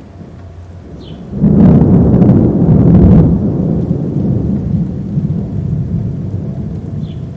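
A thunderstorm: a loud rumble of thunder breaks about a second and a half in, peaks for about two seconds and slowly dies away over a steady hiss of rain.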